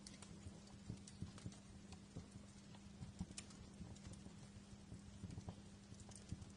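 Fireplace fire crackling: faint, irregular pops and snaps, a few louder than the rest, over a low steady hum.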